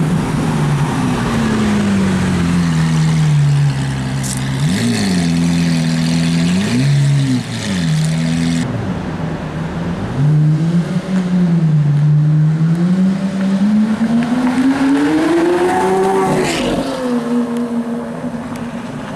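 Lamborghini Aventador LP700-4's V12 through an aftermarket Powercraft exhaust, revving: a few quick rev blips midway, then a long climb in engine pitch that peaks and drops off sharply near the end.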